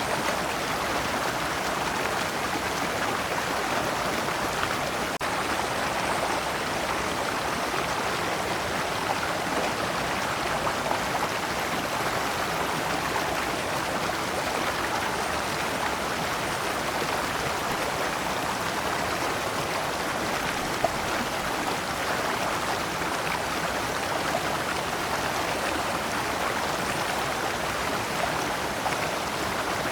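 Shallow rocky stream flowing steadily over stones in small cascades, a continuous even rush of water.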